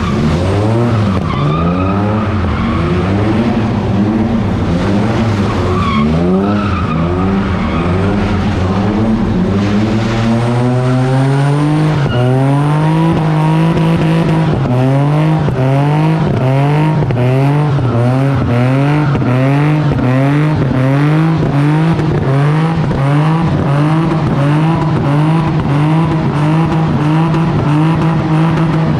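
Car engine held at high revs with tyres squealing as the car slides. The revs climb about ten seconds in and then hold. The pitch swells and falls about once a second.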